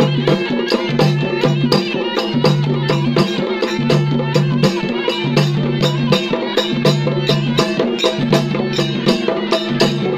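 Traditional folk music with a fast, even percussion beat of about four strokes a second over a sustained droning tone.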